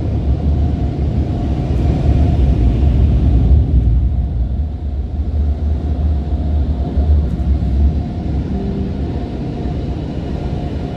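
Steady low rumble of car wash machinery heard from inside the car, easing off slightly toward the end.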